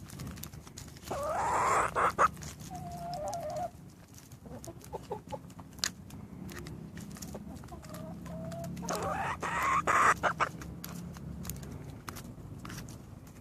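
Birds calling while they feed on a persimmon: two loud calls about a second in and again around nine seconds in, softer short calls between them, and scattered sharp clicks.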